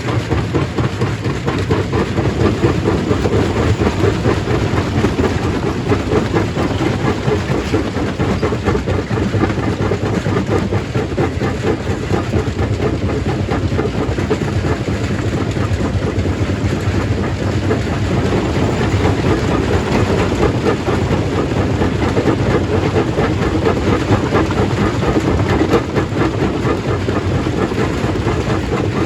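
Stone crushing machine running, a steady dense clatter of rock being broken over a constant low machine drone.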